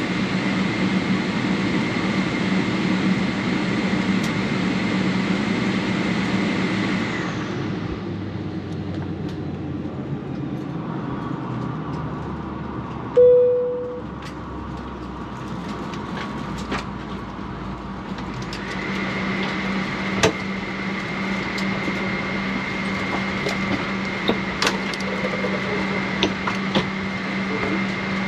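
Airliner cabin ventilation hum with a steady whine, inside a Boeing 777-300 cabin. The hum cuts out about seven seconds in and comes back about eleven seconds later. A single cabin chime sounds about thirteen seconds in, and scattered clicks follow in the later part.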